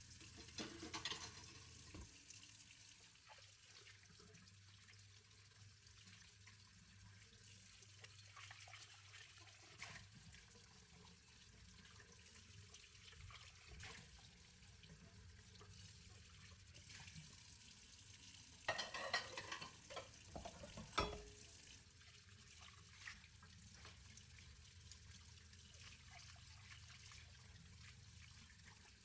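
Hand-washing dishes at a kitchen sink, mostly quiet: a faint steady wash of water, with brief clinks and knocks of dishes about a second in and again from about 19 to 21 seconds, the sharpest knock near the end of that run.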